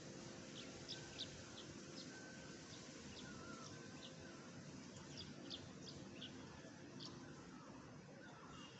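Faint, short, high-pitched animal chirps, a dozen or so scattered irregularly, over a low steady hiss.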